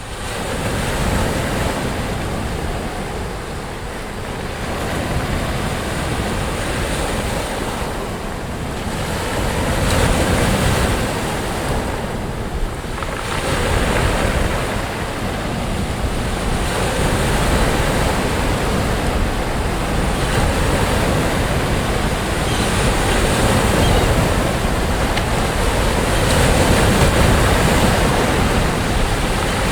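Sea waves breaking and washing up on a sandy beach, a continuous surf that swells and eases every few seconds, with wind buffeting the microphone.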